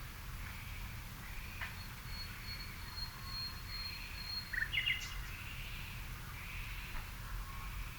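Evening garden birdsong: scattered faint bird chirps and calls, a thin high note held for about two seconds, and a short cluster of louder chirps about five seconds in, over a low steady rumble.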